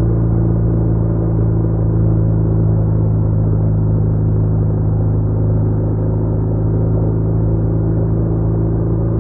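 BMW R1200R's boxer-twin engine running at steady revs while cruising, a constant hum that neither rises nor falls.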